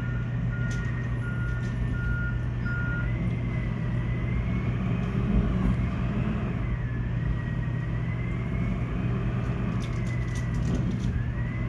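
Garbage truck diesel engines idling with a steady, loud low hum. A truck's reversing alarm beeps at an even pace for the first three seconds, and a wavering whine runs over the top.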